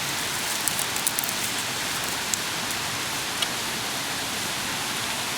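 Steady hiss of rain falling, with a few light clicks from dry sticks being handled and set in place in the first second or so and once more later.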